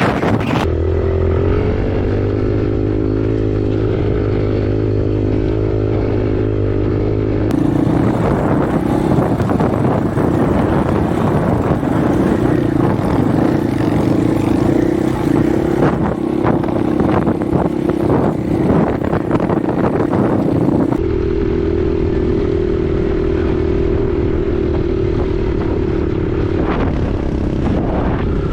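Husqvarna 501 dirt bike's single-cylinder four-stroke engine running at a steady pitch while riding. Through the middle stretch, wind buffets the bare microphone over rough ground, with many sharp knocks and rattles.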